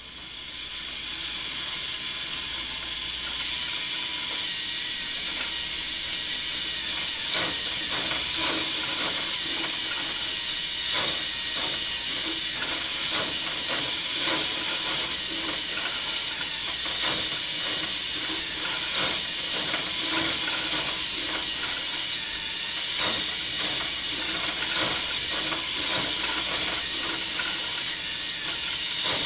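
K'nex Blizzard Blast roller coaster model running: the small motor of its lift whirs steadily while plastic parts clatter and click. The clicking grows thick and fast from about seven seconds in.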